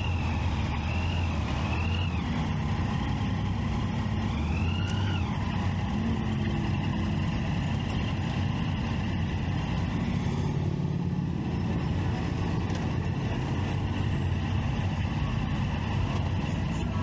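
Triumph Street Triple 675's inline-three engine running steadily while riding, with a constant low drone. A few short rising-and-falling high tones sound near the start and again about five seconds in.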